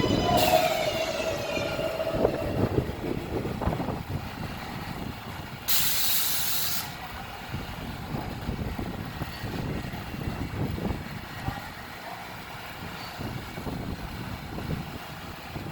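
New York City subway train slowing at the platform: a falling whine and a squeal in the first couple of seconds, then a sharp hiss of air brakes lasting about a second, about six seconds in, over the low rumble of the idling cars.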